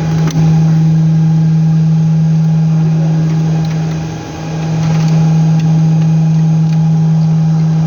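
A steady low hum on one strong pitch with a few fainter tones above it, briefly dipping and swelling back about four seconds in.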